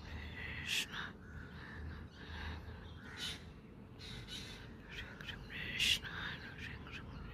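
Birds calling: short calls repeated about once a second, the loudest about six seconds in.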